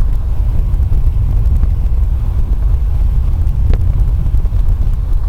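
Car driving, a steady low rumble of road and wind noise, with one brief click late on.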